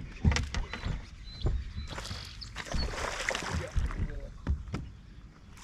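Irregular thumps and knocks against a fishing boat, with water splashing, heaviest in the middle.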